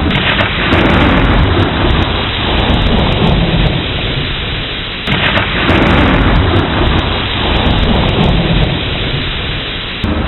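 Thunderstorm with steady heavy rain. Two rolls of thunder, one at the start and another about five seconds in, each breaking suddenly and dying away over about five seconds.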